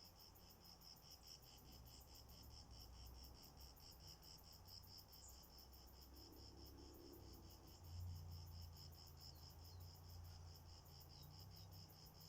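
Faint insect chirping, cricket-like, in a fast, even pulse that runs on steadily, over a soft low rumble that swells briefly about eight seconds in.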